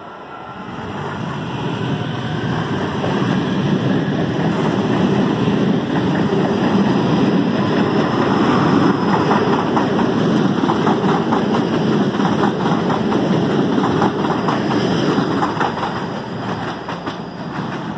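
CPTM electric multiple-unit commuter train passing close along the platform, its running noise building up and then easing off near the end. In the second half the wheels clack rhythmically over the rail joints.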